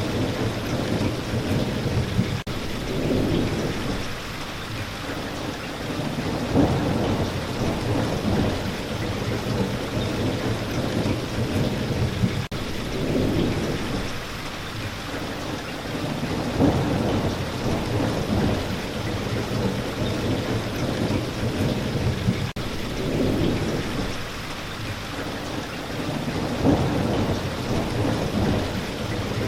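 Steady rain falling, with low rumbles of thunder that swell and fade every several seconds.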